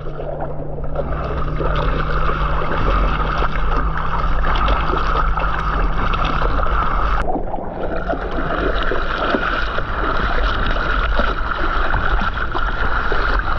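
Water sloshing and splashing around a kayak paddled through choppy water, over a steady low rumble. It breaks off briefly with a click about seven seconds in.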